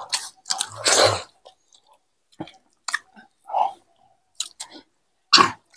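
People chewing rice and egg curry, with smacking mouth sounds in short, irregular bursts and a longer, louder burst about a second in.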